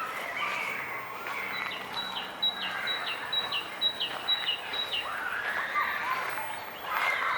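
Songbirds singing and chirping, with one bird repeating a short, high, falling note about three times a second for a few seconds in the middle.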